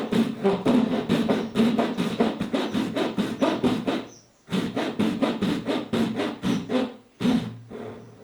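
Hand tool working pine in quick rhythmic strokes, about five or six a second, stopping briefly twice.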